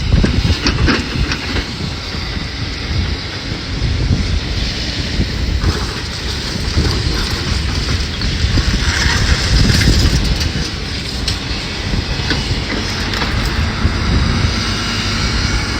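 Tracked excavator moving across demolition rubble: a continuous heavy rumble from its engine and tracks, with scattered clanks and crunches of debris under the tracks.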